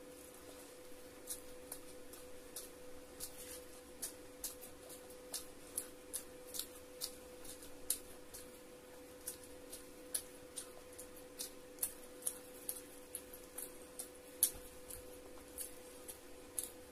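Close-up eating sounds of a person chewing food by hand: irregular sharp, wet mouth clicks and smacks, roughly two a second, over a steady low hum.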